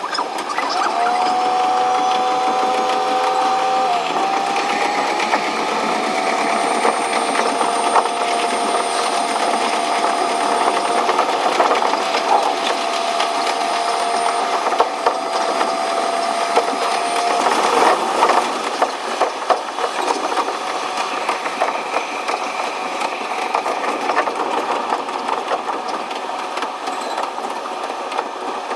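Diesel railcar running on the line, heard from inside the cab: the engine and transmission whine rises in pitch over the first few seconds as it accelerates, then holds steady. The whine stops about seventeen seconds in, followed by rattling and clacking of the wheels over the track.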